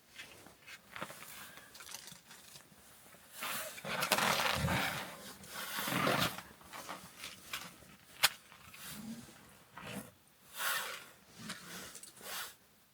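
Irregular bursts of scraping and rustling, loudest from about four to six seconds in, with one sharp click a little after eight seconds: wood and bark being handled while a campfire is laid and lit.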